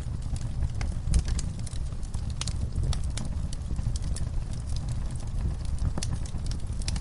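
Log fire crackling in a fireplace: irregular sharp pops and snaps over a low steady rumble of the flames, with one louder pop about a second in.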